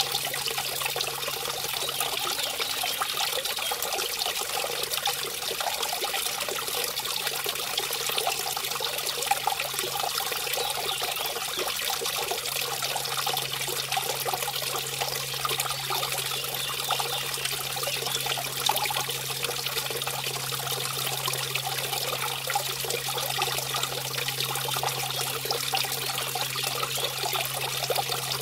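Mountain brook spilling over a small waterfall: a steady, unbroken rush and splash of running water. A faint low steady hum sits underneath and grows stronger partway through.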